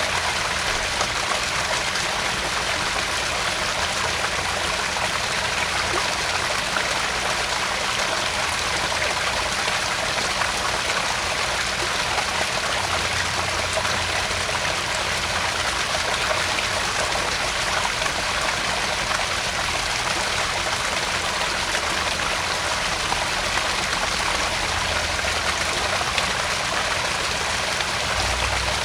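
Small garden-pond waterfall splashing and trickling steadily into the pond.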